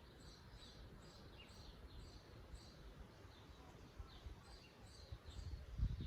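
Songbirds singing faintly: many short, high chirps repeating several times a second. A low rumble comes up near the end.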